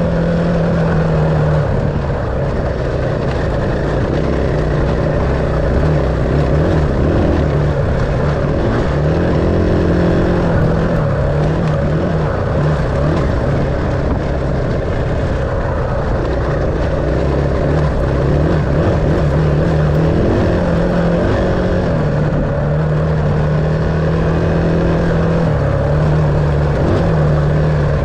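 Dirt bike engine running throughout while riding, its pitch stepping up and down every few seconds with throttle and gear changes.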